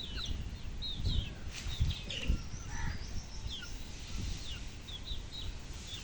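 Small birds chirping, many short, quickly falling high calls one after another from more than one bird, over a steady low rumble.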